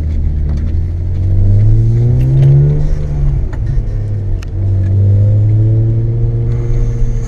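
BMW M52B28 straight-six with a straight-piped exhaust under hard acceleration, its note rising, dropping back at a gear change about three seconds in, then climbing again.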